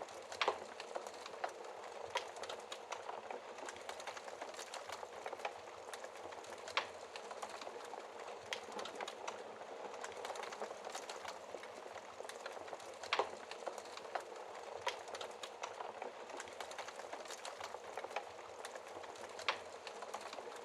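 Wood fire crackling steadily in a fireplace, with a dense patter of small snaps and a few louder pops from the burning logs.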